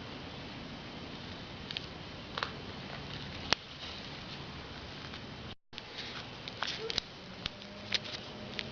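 Scattered light clicks and taps of hands handling small tools and parts, with one sharp click about three and a half seconds in, over a steady background hiss.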